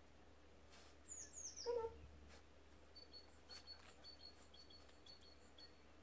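Faint outdoor birdsong: a few quick falling high chirps about a second in, then a thin high note repeated in short dashes from about three seconds on. Just before two seconds there is a brief lower call.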